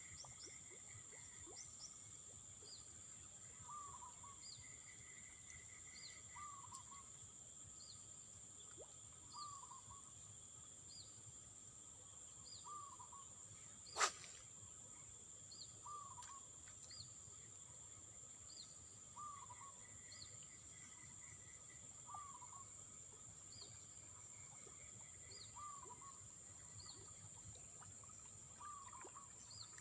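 Faint natural ambience: a steady high-pitched insect drone, with a bird giving a short call about every three seconds and small high chirps between. One sharp click about fourteen seconds in.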